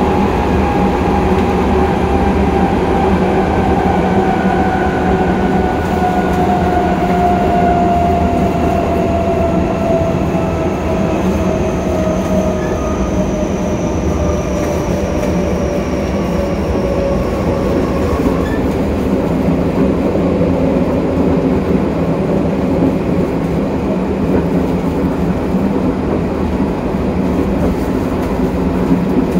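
Tokyo Metro 08000-series electric train car running, heard from the gangway between cars: a steady rumble of wheels on rail under a whining drive tone that falls steadily in pitch over about eighteen seconds as the train slows.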